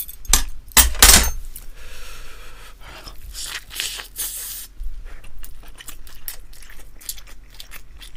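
Close-miked eating sounds from biting into and chewing a seaweed-flaked rice ball: a few sharp clicks about a second in, a short hiss around four seconds in, then small wet mouth clicks while chewing.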